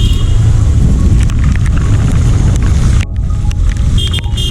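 Heavy rain falling with a loud low rumble underneath, and brief high ringing tones right at the start and again about four seconds in.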